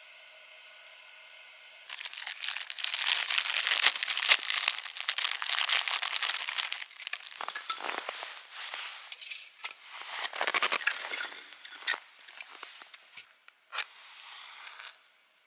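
Dense crinkling and rustling of something being handled, with many small crackles, lasting about ten seconds, then a few separate crackles near the end.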